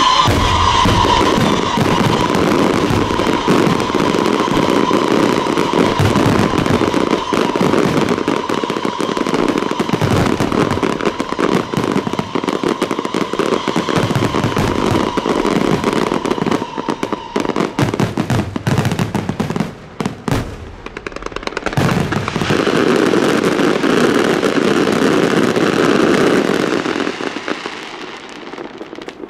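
Aerial fireworks shells bursting in a dense barrage, a continuous rattle of bangs and crackle, with a steady high tone running under the first half. About twenty seconds in the barrage breaks off briefly, then a second dense volley follows and fades near the end.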